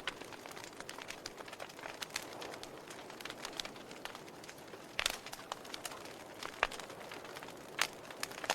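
Wood fire crackling in a fireplace: a soft steady hiss with irregular sharp pops and snaps of burning logs, the loudest about five seconds in and again near the end.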